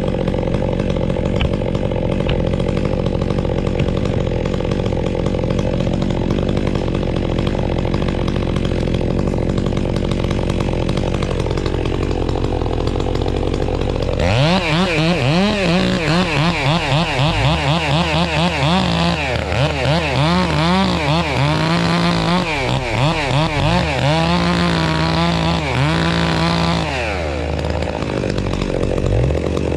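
Chainsaw running steadily while cutting into a tree, then from about halfway through revving up and down again and again for some thirteen seconds as the felling cut goes on, settling back to a steady run near the end.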